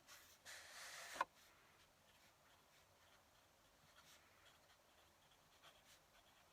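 Fountain pen nib scratching on paper in a short stroke that ends in a sharp click just over a second in, followed by faint light scratches.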